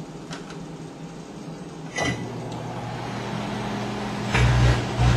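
Microwave oven switching on with a click and running with a steady low hum, then three louder buzzing surges near the end as the halved grape inside sparks into plasma.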